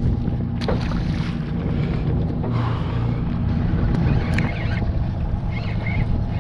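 Boat engine running steadily at low revs, with wind on the microphone and a couple of sharp knocks on the hull or deck.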